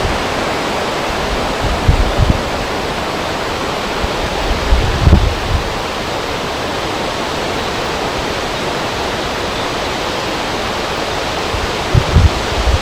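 Wind blowing over a river: a steady rushing noise, with brief low gusts buffeting the microphone a few times.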